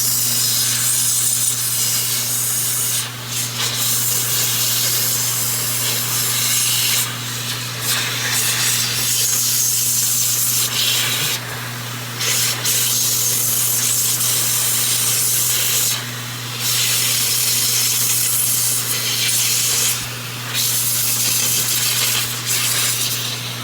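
Electric air blower running steadily, a rushing hiss over a constant motor hum, blowing excess clipper oil out of dog-clipper blades. The air eases off briefly every few seconds as it moves between blades, then cuts off at the end.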